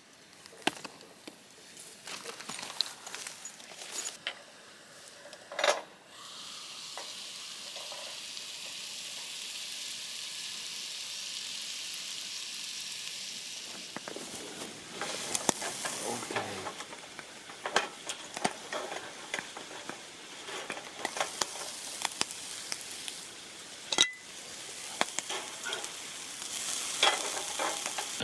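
Food frying in a hot pan: scattered clicks and taps at first, then a steady sizzle from about six seconds in that turns crackly, with sharp ticks and clicks, for the rest.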